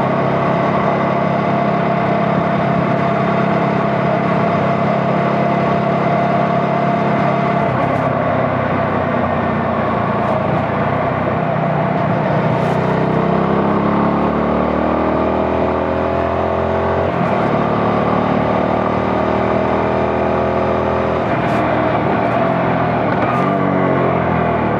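CFMoto 250NK motorcycle's single-cylinder engine running while riding, steady at first. About halfway the pitch climbs as the revs rise, drops suddenly, then climbs again near the end.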